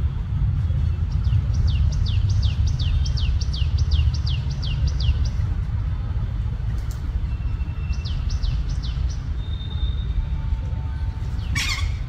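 A bird calling in quick runs of high chirps, each note sliding downward: about a dozen notes at roughly three a second, then a shorter run of about five. A sharp click comes near the end, with a steady low rumble underneath.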